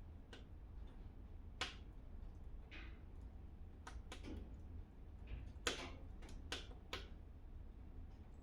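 Wood fire in a fireplace crackling: about ten scattered sharp pops at irregular intervals, the loudest a little past halfway, over a low steady hum.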